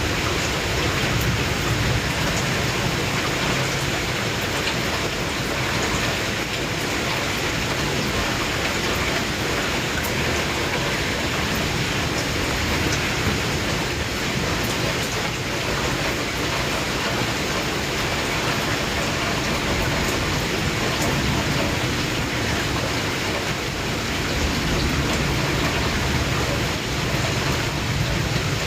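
Steady rain falling, an even hiss of rain on surfaces with no breaks.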